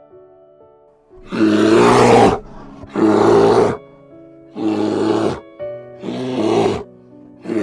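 Lion roaring in a series of about four roars, each about a second long and roughly a second and a half apart, with a fifth starting at the end, over soft piano music.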